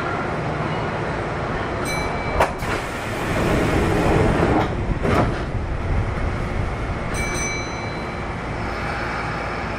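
Interior sound of a Kintetsu 1233-series electric train: a steady rumble with two sharp knocks about two and a half and five seconds in, and two short high beeps, one about two seconds in and one about seven seconds in.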